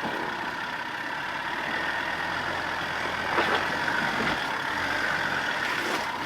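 A 4x4's engine running steadily, with a couple of short knocks about three and a half and four and a half seconds in.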